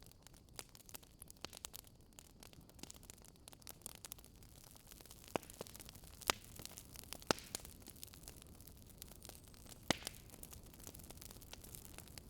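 Wood fire crackling: a dense stream of small crackles over a soft low hiss, with a few louder pops from about five seconds in.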